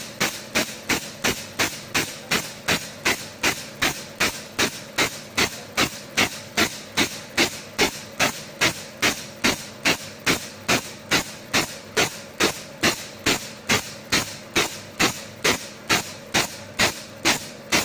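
Solenoid-actuated valves of a camless engine model clicking in a steady rhythm, about three sharp clicks a second.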